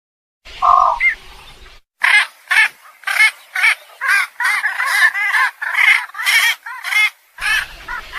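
Egrets calling: a single call about half a second in, then from about two seconds a rapid run of calls, about three a second, that keeps going.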